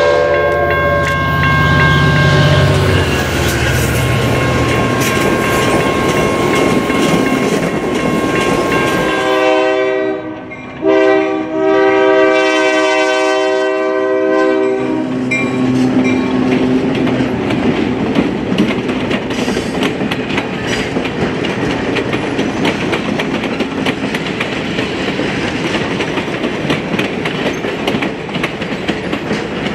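An Amtrak Cascades train running past behind its diesel locomotive, then a Mount Hood Railroad diesel locomotive's air horn blowing twice, a short blast and a longer one, as a warning at a road grade crossing. After that its passenger cars roll over the crossing with a rhythmic clickety-clack.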